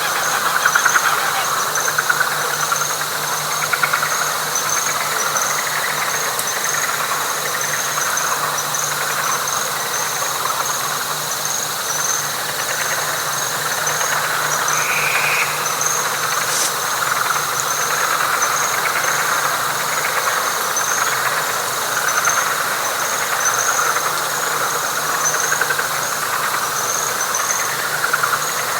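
Dense night chorus of frogs calling continuously, with a high chirp repeating about once a second and a steady high whine above it. A single short call stands out about halfway through.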